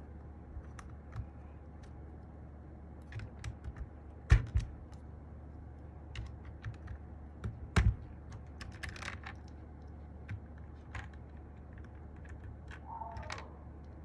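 Sky87 mechanical keyboard with MMD Panda switches and Cherry-profile keycaps being typed on: scattered, irregular keystrokes, with two louder strokes about four and eight seconds in.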